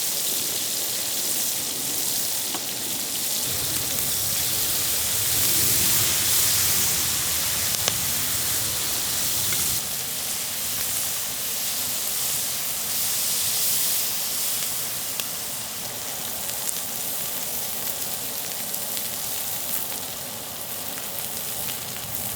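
Food sizzling and frying in a hot pan, a steady hiss with a few faint pops.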